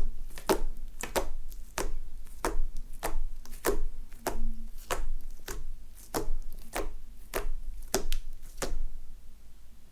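Mixed slime being pressed and poked by hand, giving a steady run of sharp clicking pops, about one and a half a second, that stop near the end.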